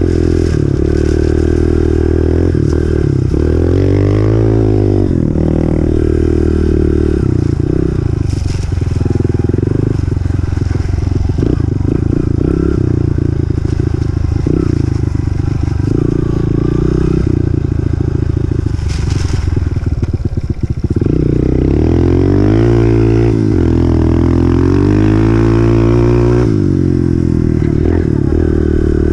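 Single-cylinder four-stroke engine of a 2018 Honda CRF125F dirt bike being ridden, its pitch rising and falling as it is revved through the gears. Through the middle stretch the engine runs lower and choppier before revving up again near the end.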